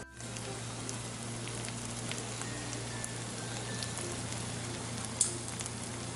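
A double quesadilla frying in a nonstick skillet: a steady sizzle with scattered small crackles of hot fat, and one sharper crackle about five seconds in.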